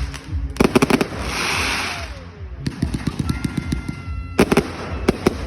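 Fireworks going off: a quick cluster of sharp bangs, a hissing burst, a run of rapid crackling, then another cluster of loud bangs near the end.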